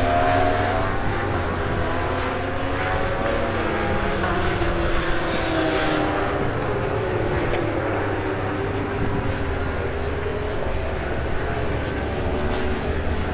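Superbike racing motorcycle engines at speed on track, their pitch rising and falling as they rev and change gear.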